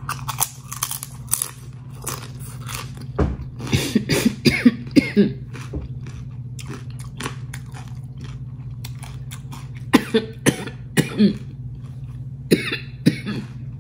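Crunchy fried tortilla chips being bitten and chewed close to the microphone, the crunches coming in loud clusters, with a few short coughs in among the bites. A steady low hum runs underneath.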